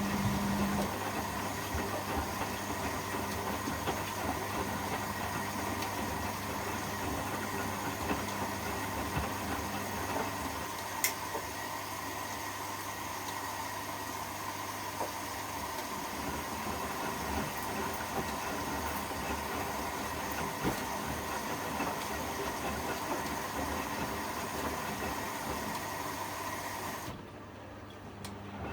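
Privileg 804 washing machine running, a steady hiss over a low hum, with the hiss cutting off suddenly near the end.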